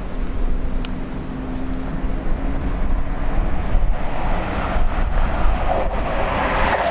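Heavy wind buffeting the microphone, with an approaching train growing steadily louder from about halfway through.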